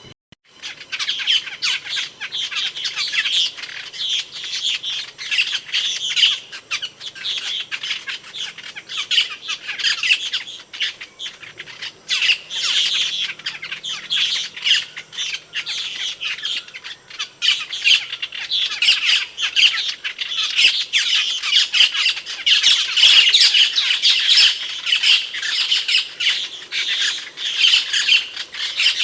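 Asian glossy starling (cucak keling) calls: a dense, unbroken stream of loud, sharp squawks and chirps, with many quick clicking notes, louder and busier in the second half.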